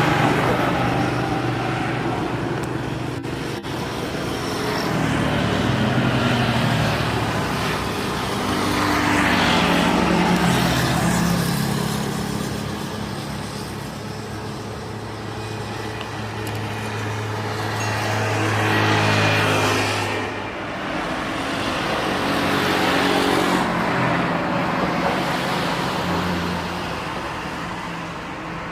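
Road traffic: motor vehicles passing one after another, each swelling and fading within a few seconds, with their engine notes shifting in pitch.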